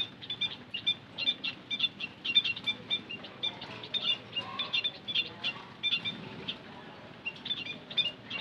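A flock of white-headed munias calling: many short, high chirps in quick, overlapping runs, with a short lull about three-quarters of the way through.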